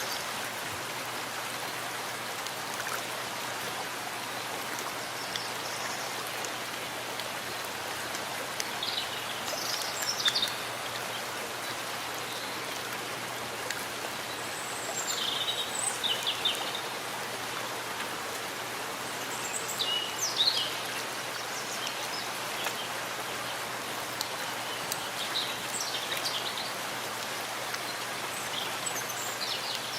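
Steady rain falling in a forest, an even hiss of drops. A few short, high bird chirps break through now and then.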